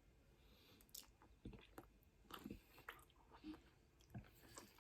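Faint chewing of food, with scattered small wet mouth clicks and smacks spread irregularly through the stretch.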